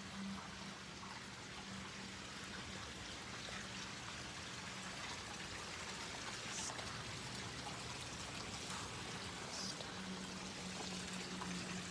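Steady hiss of water falling and trickling, with a faint low hum underneath at the start and again near the end.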